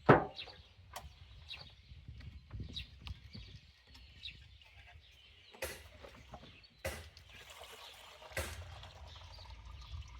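Gasoline sloshed and rattled in a small engine's fuel tank as it is rinsed, in a few short noisy bursts, after a sharp knock at the start. Birds chirp throughout.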